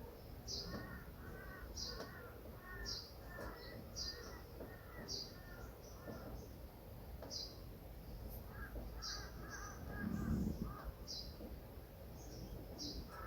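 Birds calling outdoors: one bird repeats a short, high call about once a second, while another gives runs of quick, lower notes. A dull thump sounds about ten seconds in.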